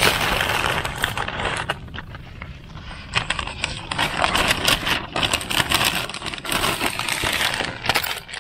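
Campfire being lit: crackling and rustling as dry paper catches under damp kindling.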